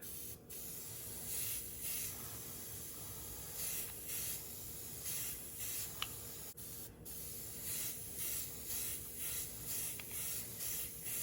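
Airbrush hissing as it sprays colour-shifting paint with reducer, in a run of short swells with brief pauses between passes.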